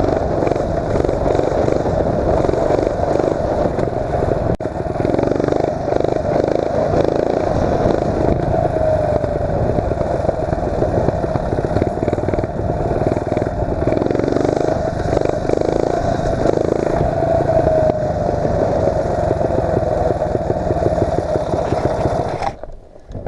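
Mini bike's 8 hp Tecumseh single-cylinder engine running under throttle while being ridden through wheelies, its pitch rising and falling with the revs. It stops abruptly near the end.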